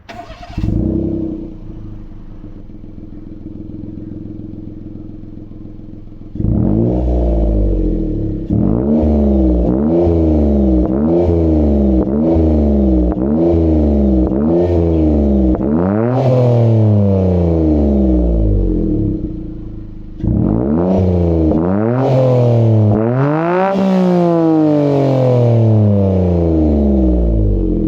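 Exhaust of a Daihatsu L275's 660 cc three-cylinder engine through a J-Works FP-039 silenced front pipe and Navic aftermarket muffler: idling quietly after a short rise about a second in, then revved in a string of quick throttle blips, each rising and falling in pitch. Longer revs follow, it drops back towards idle, and is revved again with one higher rev near the end.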